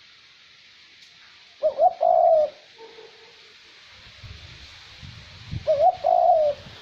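Male decoy dove cooing twice, about four seconds apart: each call is a few short rising notes ending in a longer held note. A steady hiss of light wind runs underneath. The recording is a lure call for drawing wild doves in.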